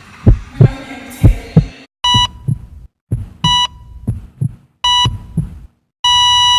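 Heartbeat sound effect, two double thumps, then a hospital heart monitor: three short high beeps about a second and a half apart with heartbeats between them, then a continuous flatline tone starting about six seconds in.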